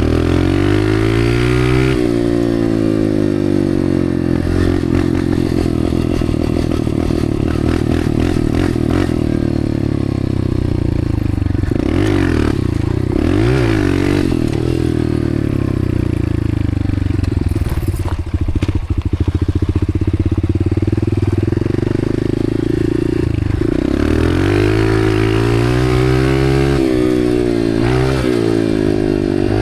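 Honda dirt bike engine being ridden hard, revving up and falling back again and again as the rider works the throttle and gears. About eighteen seconds in the note drops away briefly among rattling, then picks up again.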